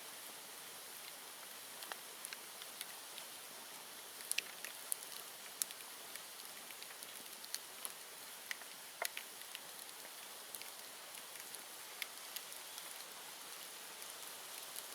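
Bonfire of cut bamboo and brush burning: a steady hiss with irregular sharp crackles and pops, a few louder ones about four to six seconds in and again around nine seconds.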